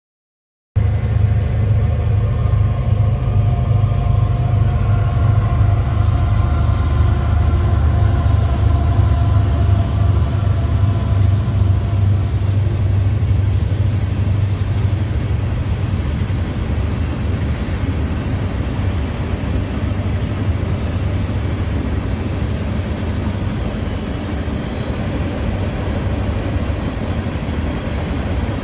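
Freight train passing close by, cutting in abruptly just under a second in. At first the diesel locomotive's engine runs with a steady whine above the rumble, fading over about the first ten seconds. Then comes the steady rumble of hopper and tank cars rolling past.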